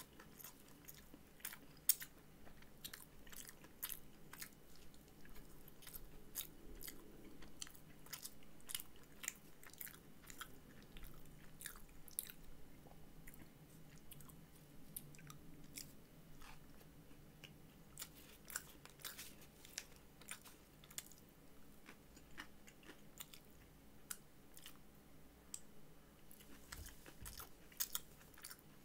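A person chewing a Popeyes fried chicken sandwich close to the microphone: a steady run of wet mouth smacks and clicks, several a second, over a faint low hum.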